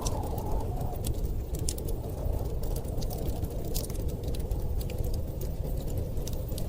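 Wood fire crackling, with sharp irregular pops, over a steady low rumble of blizzard wind.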